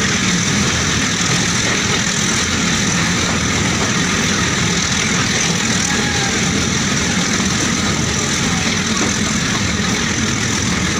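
Steady running noise of a passenger train, heard from beside an open coach window: a continuous even rumble and rush with no breaks.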